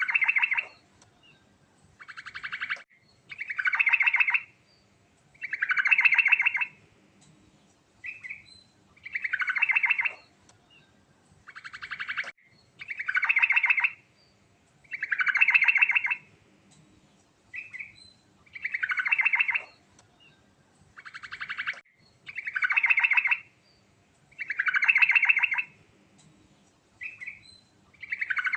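Yellow-vented bulbul singing without a break, repeating a phrase about every two seconds: a short note, then a fast rattling trill that swells louder toward its end.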